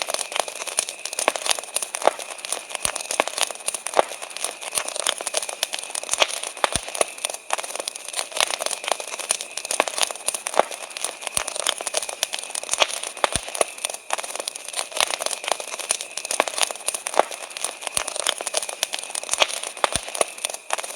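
Wood campfire crackling: a dense, irregular stream of small pops and snaps with a few sharper cracks. Underneath runs a steady high chirring of crickets.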